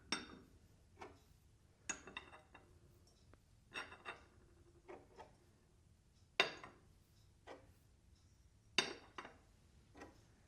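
Dishes and glassware clinking and knocking as they are handled, one sharp knock every second or so, some ringing briefly after the strike.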